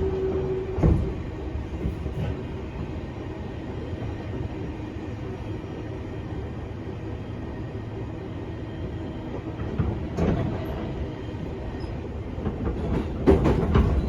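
Interior running noise of a JR 205 series 500 electric train, heard from its motor car: a steady rumble of wheels on rail with a few knocks over rail joints. A held hum stops about a second in.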